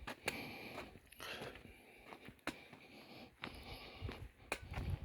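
A hiker's footsteps on the trail: irregular soft scuffs and clicks, roughly one or two a second, over faint hiss.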